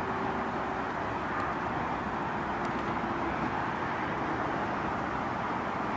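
Small handheld portable fan running steadily: an even whir of its motor and airflow.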